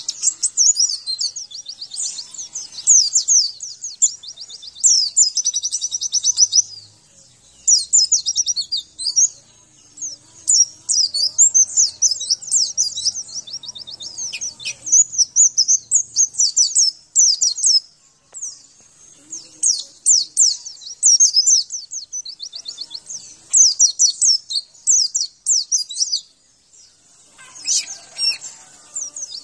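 White-eye (pleci) singing: a fast, high chattering song of rapid twittering trills, delivered in phrases of a few seconds with short pauses between them.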